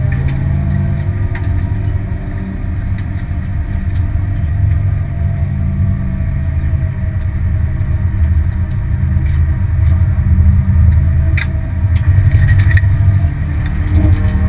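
Honda Civic's engine and road noise heard from inside the cabin at track speed. The engine note falls over the first few seconds, then the noise grows louder and the engine pitch climbs again near the end.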